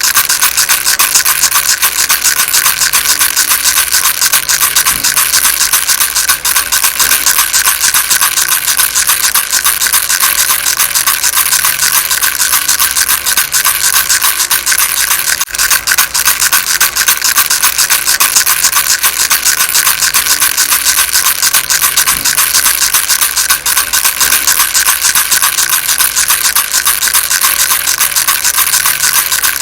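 Baby rattle shaken fast and without pause: a loud, even, dense rattle.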